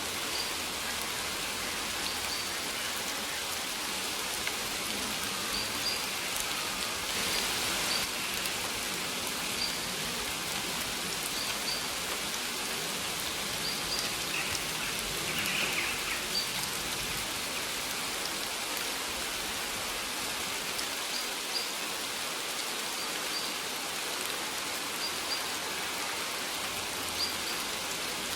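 Steady rain falling, an even hiss of drops. Faint short high bird chirps come through every second or two.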